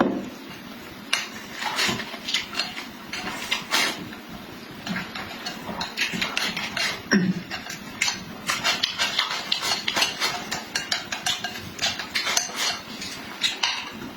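Eating sounds: many irregular clicks and clinks of utensils against dishes, coming quickly one after another.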